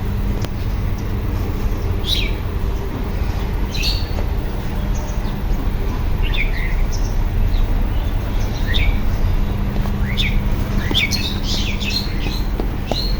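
Small birds chirping: short calls that slide down in pitch every second or two, coming thicker near the end, over a steady low rumble.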